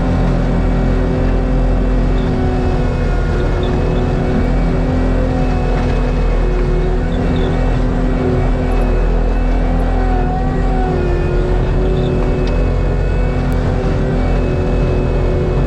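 Diesel engine of heavy land-clearing equipment running steadily at high revs under load, its pitch sagging and recovering slightly now and then.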